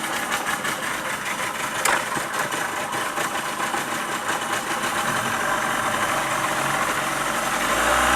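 Tour boat's engine running steadily as the boat moves along a swamp channel, growing a little louder and fuller near the end.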